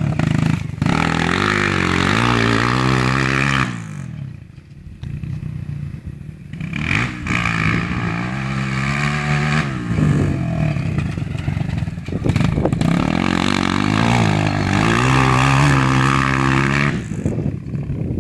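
Motocross dirt bike engine revving up in pitch and easing off as it goes through turns. It drops to a quieter, lower note about four seconds in, then climbs again in several pulls before backing off near the end.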